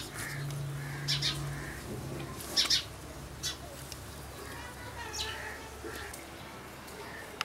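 Birds chirping in short, scattered calls, the loudest pair about two and a half seconds in, over a low steady hum that stops about two seconds in.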